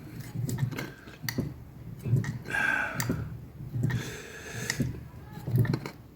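Hand-operated fly press bumped again and again, its tooling knocking into 2 mm steel plate to press in leaf veins: a run of dull knocks with sharp metallic clicks and a couple of short rings.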